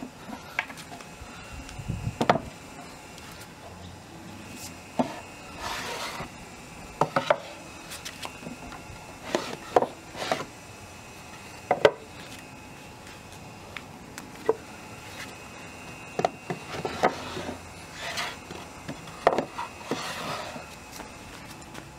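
Wooden boards and parts being handled: irregular sharp knocks of wood on wood, a dozen or so spread unevenly, with a few short sliding scrapes.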